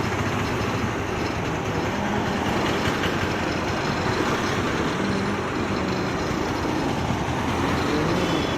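Motorcycle running while being ridden, a faint engine note under steady noise at an even level.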